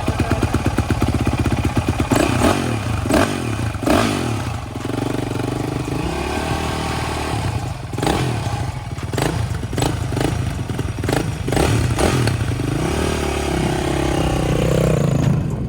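Dirt bike engine running and being revved a few times, with several sharp knocks and clatters over it.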